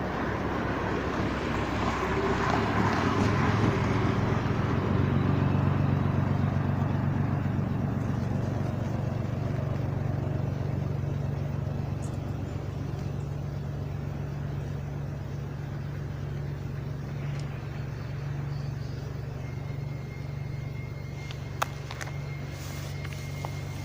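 Steady low hum of an idling engine, with a rush of broader noise that swells over the first few seconds and fades by about eight seconds in.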